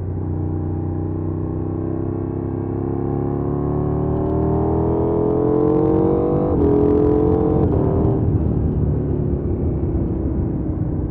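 2020 KTM 790 Duke's parallel-twin engine pulling hard with steadily rising pitch, a quick upshift about six and a half seconds in, then the throttle closing about a second later and the engine note falling away as the bike slows. A steady rumble of wind and road noise runs underneath.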